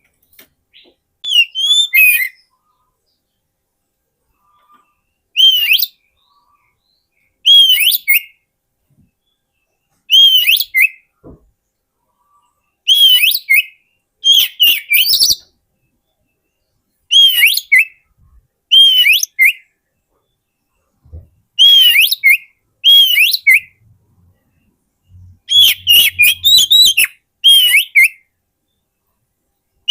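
Oriental magpie-robin (kacer) singing: short, loud whistled phrases, each a sharp rising-and-falling note with quick higher notes, repeated every couple of seconds with short silences between. This is the kind of song used as a lure call for wild magpie-robins.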